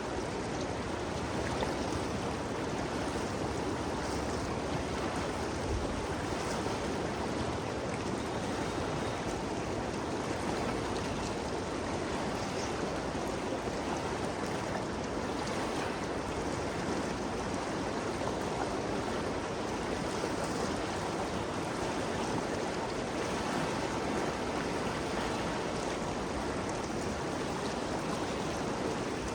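Ganges River flowing: a steady, even rush of moving water.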